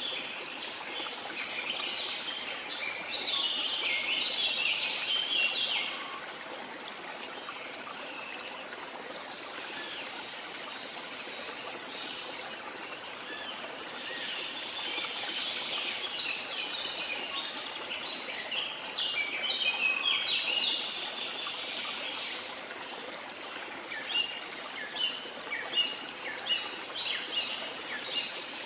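Birds twittering and chirping over the steady rush of a waterfall. The song comes in dense bouts, then breaks into a run of separate short chirps near the end.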